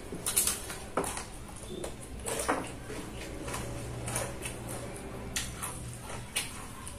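Close-up eating sounds of a person chewing a mouthful of rice and fuyunghai (egg foo young) eaten by hand: irregular wet clicks and lip smacks, a few sharp ones in the first second and again about two and a half seconds in.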